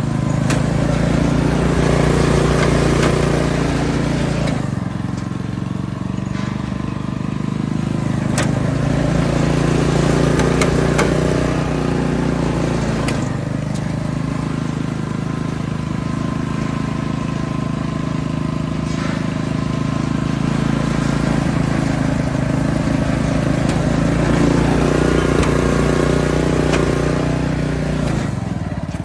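Kubota GH170-1 single-cylinder gasoline engine of a Chikusui Canycom ES633 three-wheeled ride-on carrier running steadily, its note swelling and easing a few times.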